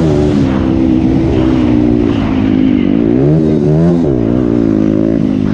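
Motocross bike engine running hard, its pitch rising and falling repeatedly as the throttle is worked, with two quick rev swoops midway.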